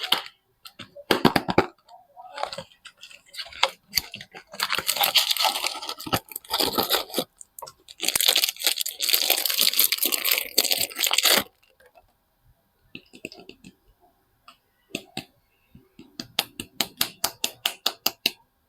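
Soap packaging being torn open and crinkled by hand, in two long stretches of crackling tearing. Near the end comes a quick run of sharp clicks or taps, about six a second.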